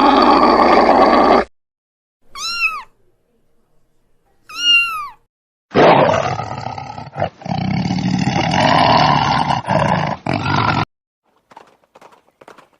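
Animal calls: a harsh sound that stops about a second and a half in, then two short cries that each rise and fall in pitch, then a long rough call lasting about five seconds.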